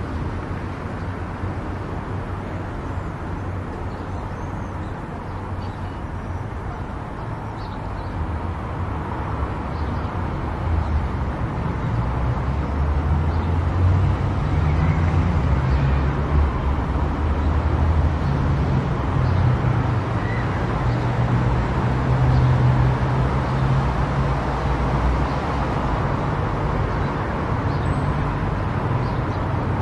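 A car driving on a highway: steady tyre and engine rumble that grows louder about a third of the way in.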